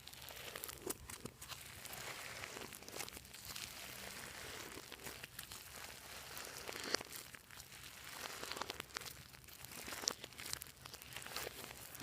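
Glossy slime being worked and stretched by hand: a continuous sticky, crackly sound of many small irregular pops and clicks.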